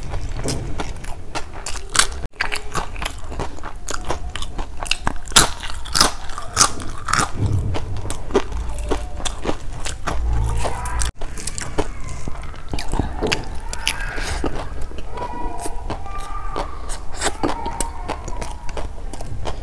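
Close-miked chewing of mouthfuls of rice and curry eaten by hand: dense, wet clicking mouth sounds with some crunching.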